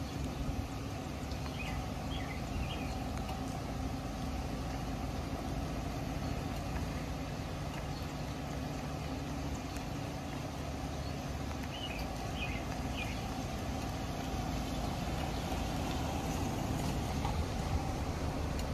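Ford Crown Victoria police car's 4.6-litre V8 idling steadily, with a few faint chirps over it.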